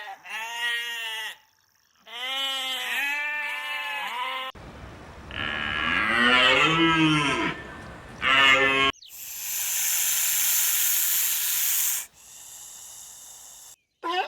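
A run of farm-animal calls: short, repeated cries rising and falling in pitch, then a long, lower cow moo from about four and a half seconds in. A few seconds of steady hissing noise follow.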